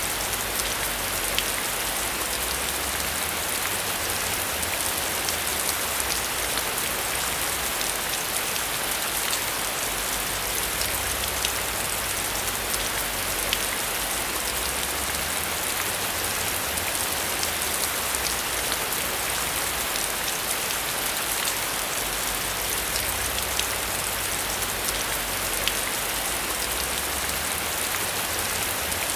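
Heavy rain falling steadily, a dense hiss flecked with many individual drop ticks, over a low rumble that swells and fades every few seconds.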